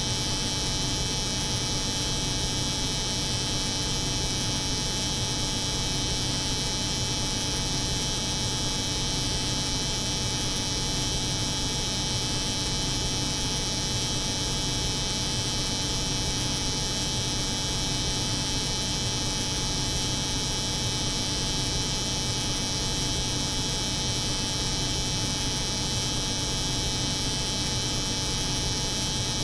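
Steady hum of a cold room layered with the buzz of an electric hair clipper, unchanging throughout.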